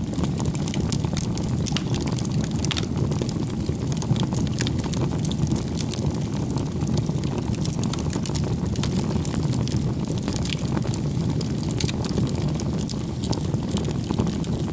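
Bonfire burning: a steady low rush of flame with many sharp crackles and pops of burning wood scattered throughout.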